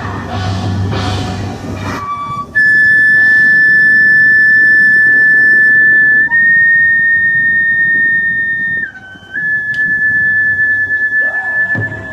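A loud, high, pure whistling tone held for several seconds at a time, stepping up slightly in pitch about six seconds in and dipping briefly near nine seconds before settling again.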